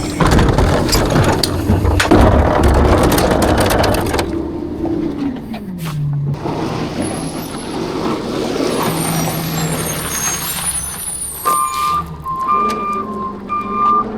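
Rear-loader garbage truck working: for the first few seconds the engine runs fast under load amid dense clattering. The engine then drops in pitch to a lower idle. Near the end the truck's reverse alarm starts beeping over and over, alternating between two close tones.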